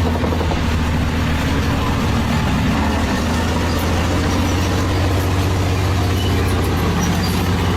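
A heavy engine running steadily with a low, even drone.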